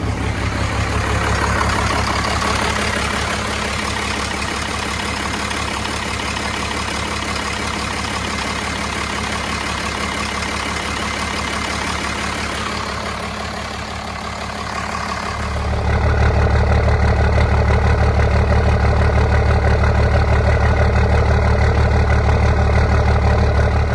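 First-generation Cummins 5.9-litre inline-six diesel idling steadily after a jump start. About 15 seconds in it turns louder and deeper and stays that way.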